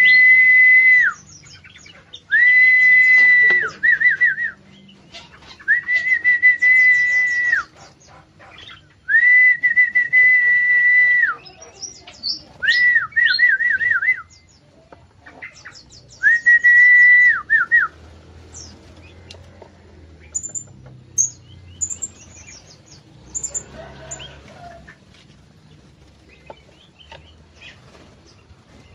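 Six loud, clear whistles on one steady pitch, each held one to two seconds and ending in a quick wavering trill. After them come softer, high, short bird chirps.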